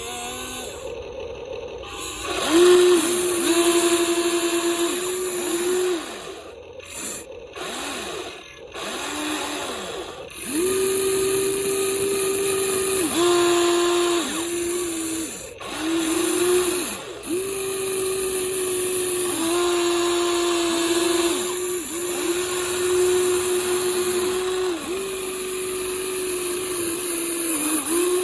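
Small electric motors of a Huina 1593 RC toy excavator whirring in repeated runs of one to several seconds, each spinning up and winding down as the boom, arm and bucket are worked.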